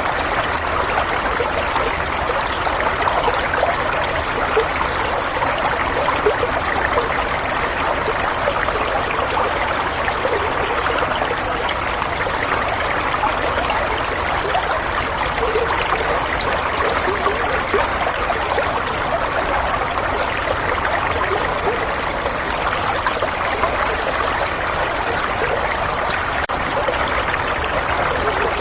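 Running water, a steady burbling flow like a stream, with no breaks or changes.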